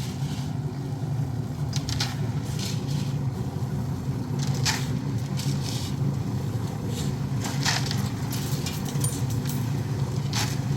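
An engine running steadily, with short scraping or crunching noises at irregular intervals, about a dozen in all.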